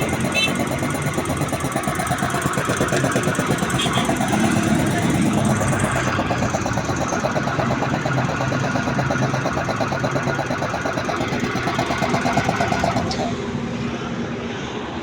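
1 hp electric air compressor running under test with a fast, even mechanical pulsing; about thirteen seconds in the pulsing stops and the sound drops a little quieter.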